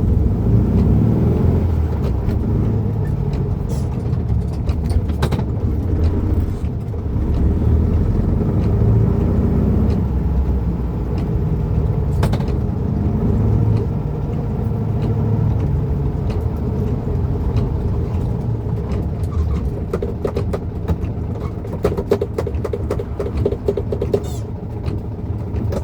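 Volkswagen Beetle's air-cooled flat-four engine running, heard from inside the cabin, its pitch slowly rising and falling as the car moves in traffic, with scattered sharp ticks.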